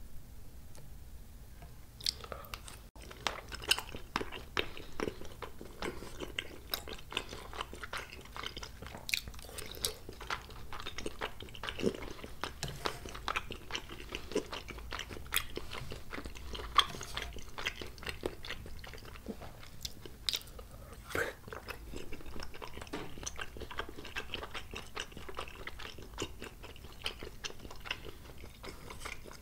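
Close-miked chewing of spicy tteokbokki: chewy rice cakes and fish cake in sauce, heard as a dense run of short mouth clicks. The chewing starts about two seconds in.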